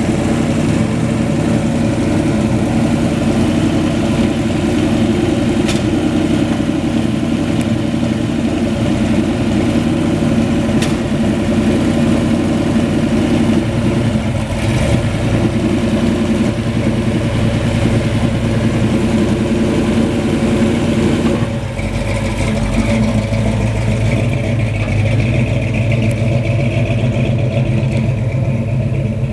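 Classic Dodge Charger muscle car engine idling loudly and steadily. About three-quarters of the way through, the sound shifts to a deeper, lower tone.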